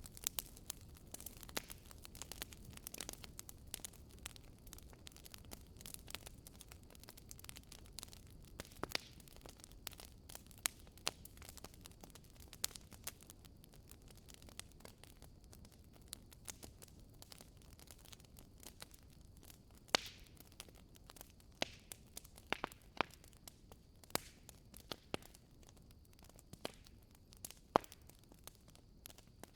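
Wood bonfire burning, crackling with frequent irregular sharp pops and snaps over a low, steady rustle of the flames.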